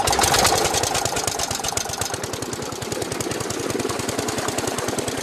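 Fishing boat's engine running with a rapid, even knocking beat.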